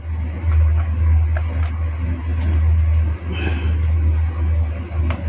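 Steady low rumble, with a few light clicks and knocks over it.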